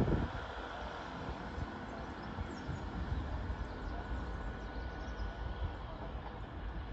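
Distant approaching train, a faint steady rumble with a thin steady whine in the middle, and wind buffeting the microphone at the very start.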